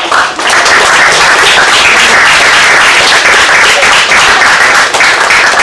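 A group of people applauding loudly, a dense run of overlapping hand claps that carries on throughout.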